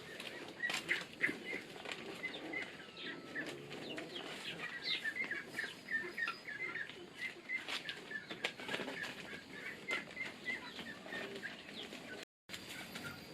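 Chickens clucking and cheeping: many short high calls with scattered clicks. The sound cuts out for a moment near the end.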